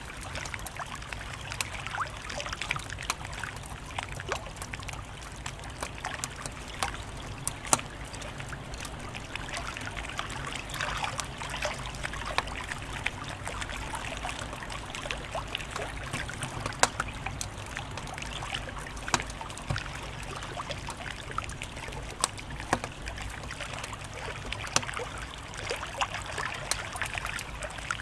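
Wood fire crackling, with frequent sharp pops and snaps scattered irregularly over a steady hiss and a low, even rumble.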